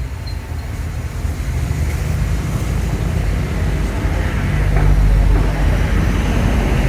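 Road traffic: a motor vehicle's low rumble swelling as it passes, loudest about five seconds in.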